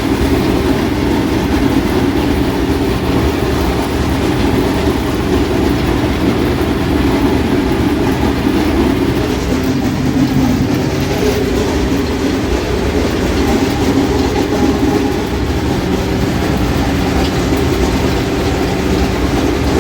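Allis-Chalmers 7000 tractor running steadily under load while pulling a New Holland 1209 haybine mower-conditioner through hay: a loud, constant engine and machinery din.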